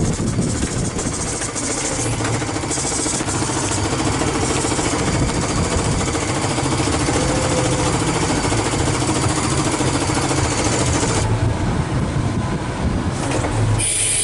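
Heavy dump truck's diesel engine running steadily, heard from inside the cab with a full load of gravel on. A short burst of hissing air comes right at the end.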